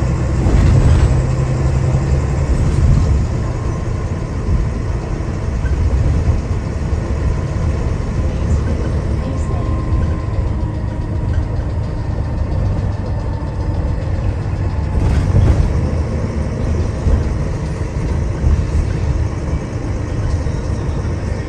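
Diesel engine of a Wright Gemini 2 double-decker bus running steadily, heard from inside the passenger deck together with road noise. Its level rises and falls slightly.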